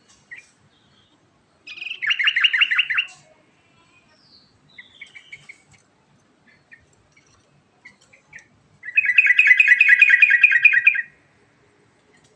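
Yellow-vented bulbul singing its rolling song: two loud bursts of rapid repeated bubbling notes, the first about two seconds in and the second, longer one near the end, with soft short chirps and a brief falling whistle in between.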